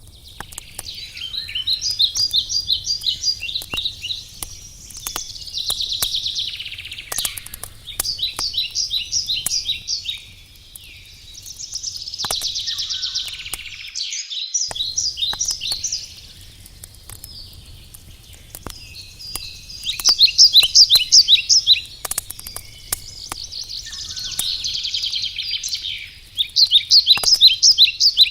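A songbird singing loud phrases of quick repeated high notes, a new phrase every few seconds, over the scattered sharp pops and crackle of a wood campfire.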